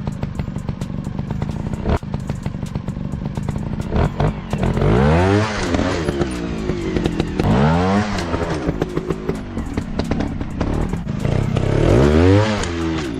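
Single-cylinder dirt bike engine revving up and back down three times, with scattered clattering knocks.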